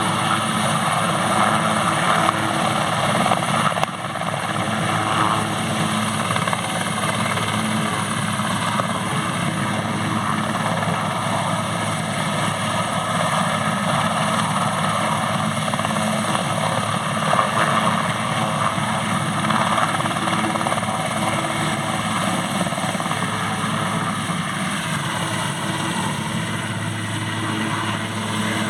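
Airbus AS532AL Cougar helicopter's twin turboshaft engines and rotor running steadily, with a steady low hum under the turbine noise.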